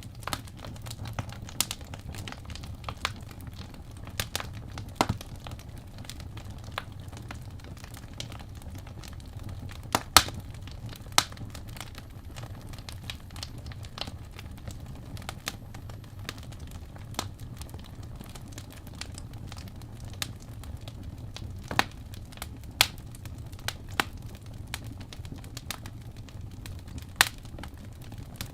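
Wood fire burning in a fireplace: irregular crackles and snaps over a low steady rumble of flames, with a few louder pops.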